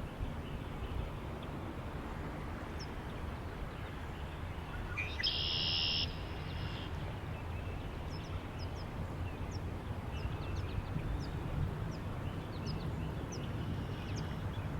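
Wind blowing steadily with a low noise, and small birds giving short, high chirps scattered throughout. About five seconds in, a louder buzzy sound lasts roughly a second.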